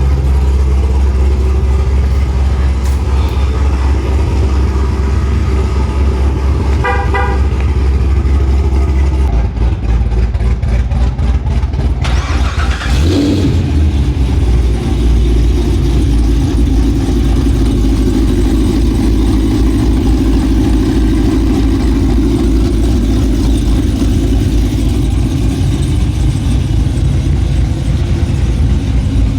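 Motor vehicle driving, a steady low rumble throughout, with a short horn-like beeping about seven seconds in and a brief sweep in pitch around the middle.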